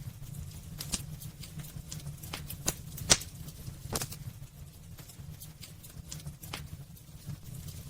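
Wood fire burning in a fireplace: irregular sharp crackles and pops over a low steady rumble, the loudest pop about three seconds in.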